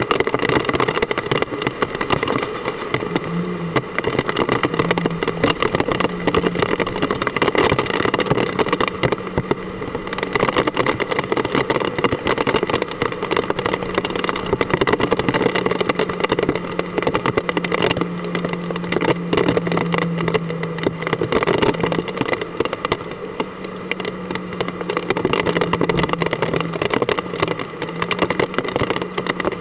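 Hard typhoon rain falling steadily, a dense hiss full of fine patter. A steady low hum joins in about three seconds in.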